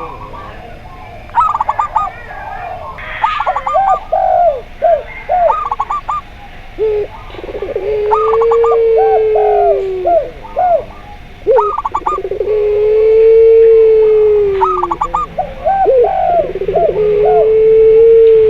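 Several doves cooing together: zebra dove, spotted dove and puter pelung (ringneck dove). Clusters of quick, short, higher coo notes repeat throughout. Three long drawn-out, slightly arching coos of about two to three seconds each come in the middle and near the end.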